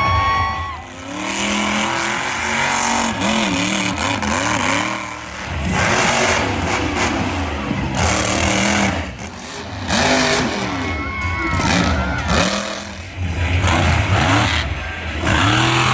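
Monster truck engine revving hard over and over, its pitch swooping up and down, with loud surges of roar between brief dips.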